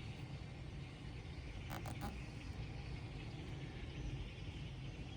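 Steady massed chatter of a huge flock of red-winged blackbirds and starlings, heard as an even hiss over a low rumble, with three quick clicks about two seconds in.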